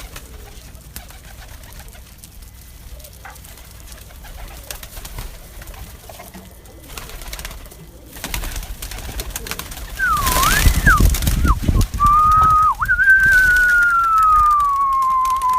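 Domestic pigeons cooing. About ten seconds in comes a brief rush of noise, then a person whistles: a short wavering whistle, then one long whistle that slowly falls in pitch, the keeper's call to bring the pigeons to him.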